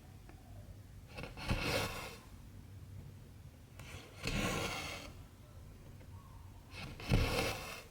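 Cotton embroidery thread being pulled through 14-count cross-stitch fabric, a rubbing rasp three times, each about a second long and a few seconds apart.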